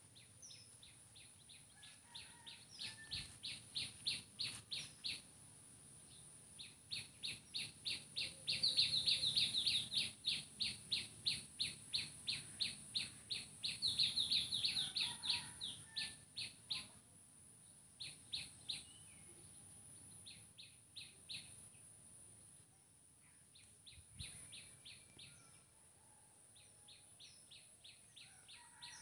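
A small bird calls in rapid runs of short, high chirps, about four a second. The bouts come and go, loudest around a third and a half of the way through. A steady high hiss runs beneath.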